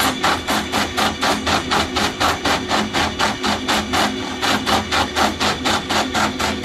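Tissue and paper towel log saw cutting machine running, a fast even rhythm of sharp strokes, about four to five a second, over a steady machine hum.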